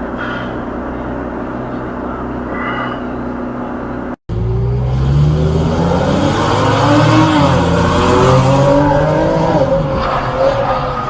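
Car driving noise, steady for about four seconds; then, after an abrupt cut, louder vehicle noise with a pitch that wavers up and down for several seconds.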